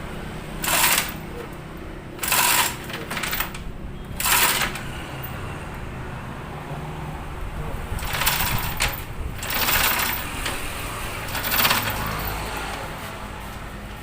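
A mechanical tool running in short bursts of about half a second each, six times in all, over a steady low hum.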